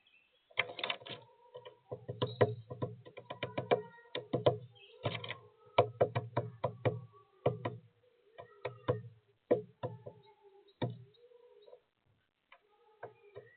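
Woodpecker pecking at sunflower seeds on a bird feeder: a quick, irregular run of sharp knocks that fades out near the end.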